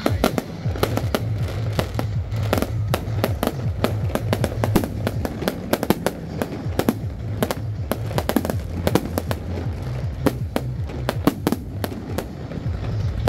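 Electronically fired aerial fireworks shells bursting overhead in a rapid, irregular string of sharp bangs, coming thickest in the second half. Music with a steady low beat plays underneath.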